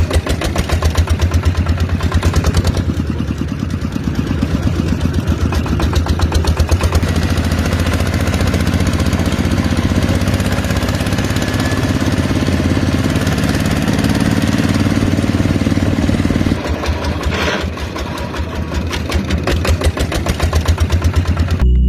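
Small engine running steadily with rapid, even firing pulses, easing off about three-quarters of the way through and picking up again near the end.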